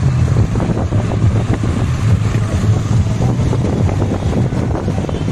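Motorcycle and van engines running in a low, steady drone, with wind rumbling on the microphone.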